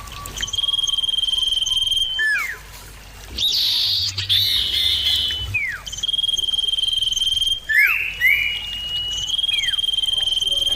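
Common iora (cipoh) singing: long steady high whistles, each held for a second or more, alternating with short notes that drop sharply in pitch, repeated several times.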